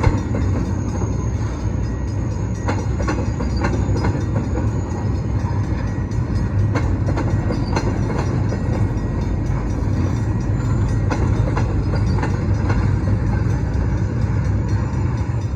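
Welded rail freight train rolling past on the track, a steady heavy rolling noise with scattered clicks and knocks from wheels and cars.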